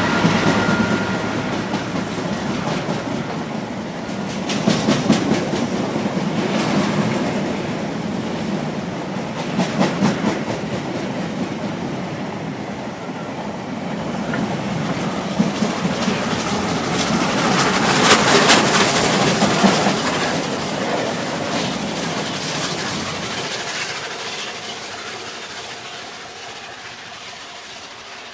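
Freight train passing at close range, its wagon wheels clattering over rail joints in a steady clickety-clack, fading away over the last several seconds.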